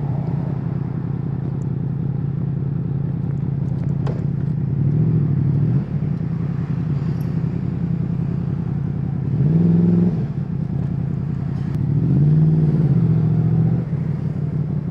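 Yamaha MT-10's crossplane inline-four engine running, its note rising and falling three times as the throttle is opened and closed, about five, ten and twelve seconds in.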